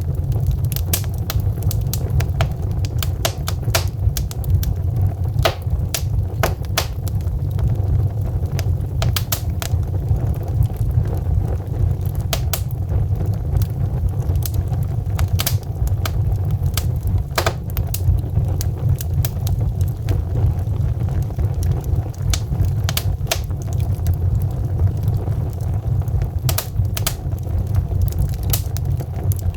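Wood fire burning, with a steady low rumble of flame under frequent irregular crackles and sharp pops from the logs.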